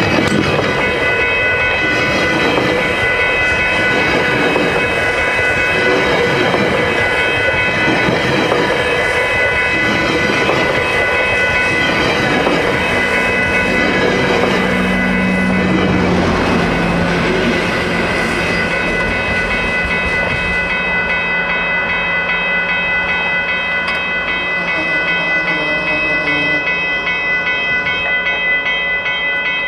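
GO Transit bilevel commuter coaches passing close by, their wheels clattering over the rails, while the level-crossing bell rings steadily. After about two-thirds of the way through the train noise fades and the bell rings on.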